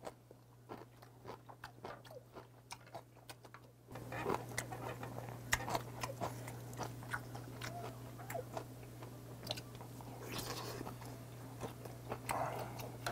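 Close-miked chewing of boiled beef tongue, with many short wet mouth clicks. Around the middle, a knife slices through the boiled tongue on a wooden cutting board.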